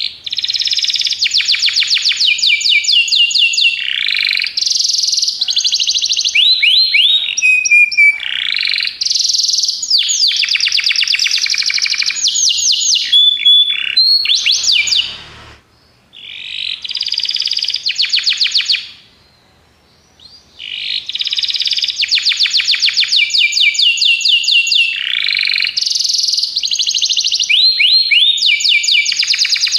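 Domestic canary singing long, loud song phrases of fast trilled notes, switching from one trill to the next, with short pauses about half-way and two-thirds of the way through.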